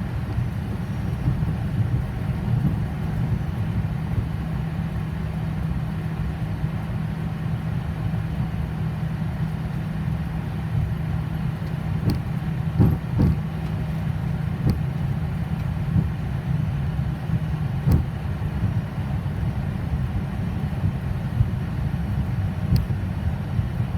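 Boeing 737 jet engines running at taxi idle: a steady low rumble with a droning hum. A few short clicks come through about halfway in and near the end.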